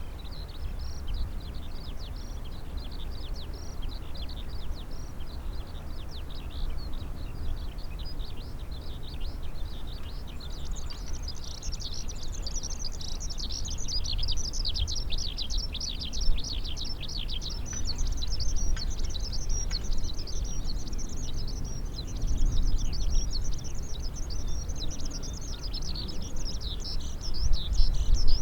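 Many small birds chirping rapidly in a dense chorus, which grows busier and louder about ten seconds in, over a steady low rumble.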